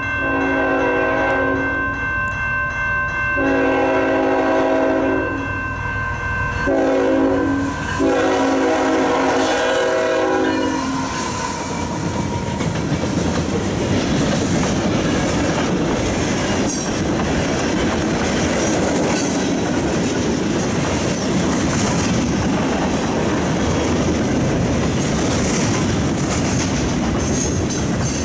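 Canadian National freight locomotive's air horn sounding the grade-crossing signal: two long blasts, a short one, then a final long one held for several seconds. The locomotive and its freight cars then roll through the crossing in a steady rush of wheel and rail noise.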